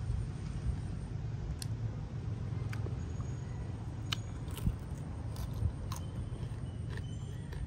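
Crisp crunching and crackling from chewing fried spiders: a dozen or so short sharp cracks, scattered irregularly over a steady low rumble.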